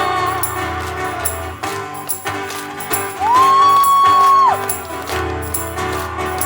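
Live band playing an instrumental passage between sung lines: keyboard and guitar over a steady jingling beat. About halfway through, a single high note slides up, holds for about a second, and drops away.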